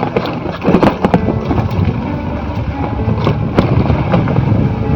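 Motorcycle engine running under load on a rough, broken hill road, with the machine jolting and knocking over the bumps.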